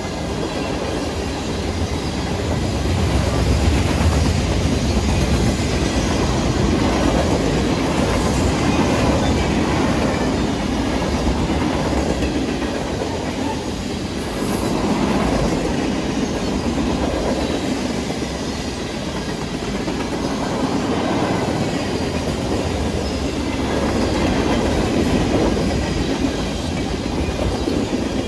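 Steel wheels of a passing mixed freight train (tank cars, covered hoppers, centerbeam flatcars) rolling along the rails at close range. The noise is continuous and rises and falls every several seconds as the cars go by.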